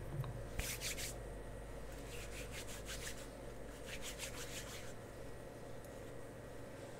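Close-up rubbing strokes, as of cosmetics being worked in with a brush or fingertips, in three short bursts of quick, crisp strokes spread through the first five seconds.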